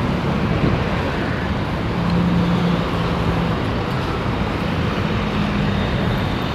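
Steady road traffic noise from vehicles passing on a highway, with one engine's low hum standing out about two seconds in.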